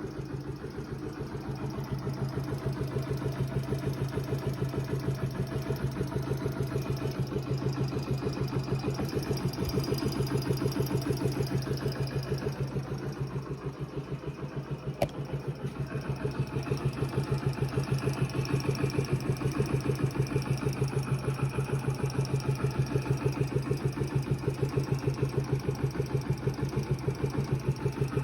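Yamaha Factor YBR 125 K1's single-cylinder four-stroke engine idling with an even rapid pulse and a mechanical noise that the owner says is not the tappets. A single sharp click about halfway through.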